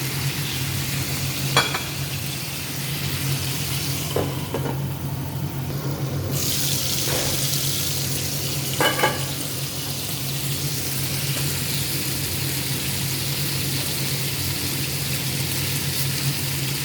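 Chicken adobo pieces sizzling steadily in oil in a pan, with a few short knocks and clinks of utensils or the lid against the pan. About five seconds in, the sizzle is briefly muffled, then comes back brighter.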